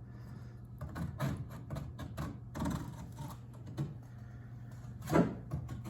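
Irregular light clicks and taps from hands and tools working on a plastic kayak hull during a plastic-welding patch repair, over a steady low hum. A short, louder pitched sound comes about five seconds in.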